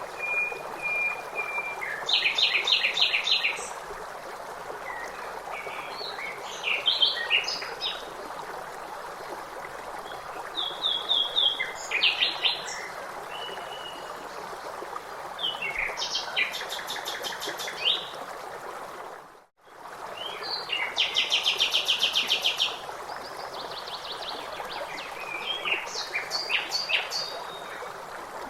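Songbirds calling and singing in short phrases and rapid trills over a steady rush of flowing stream water. The sound briefly cuts out about two-thirds of the way through.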